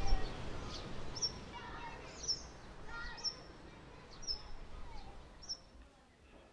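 A bird calling outdoors: a short, high chirp with a quick falling tail, repeated about once a second, six times, over faint distant voices.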